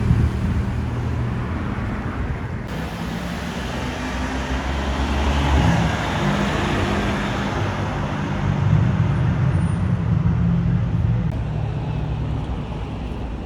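Street traffic: car engines running and passing by, with a low engine note that swells about halfway through and again a little later.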